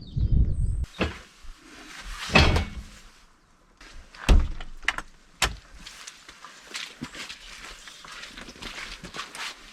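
A few heavy thuds and knocks, then a run of lighter clicks and taps.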